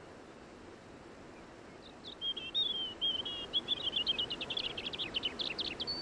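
Small songbird singing, starting about two seconds in: a wavering high phrase that runs into a fast series of short notes, over faint outdoor ambience.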